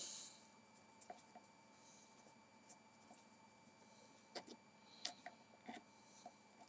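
Faint, scattered light clicks and taps of small metal parts and tools being handled while a model radial engine's rocker-arm holder is taken off.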